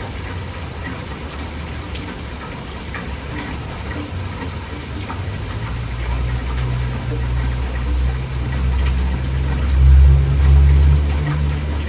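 Heavy rain falling steadily, with scattered drop ticks over an even hiss. A low rumble underneath swells and is loudest near the end.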